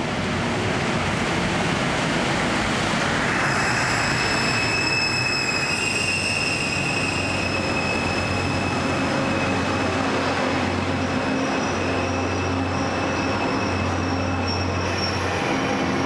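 Sleeper-express train hauled by an EF510 electric locomotive running along a station platform, its steel wheels rumbling over the rails. A steady high-pitched wheel squeal sets in about three seconds in, over a low steady hum.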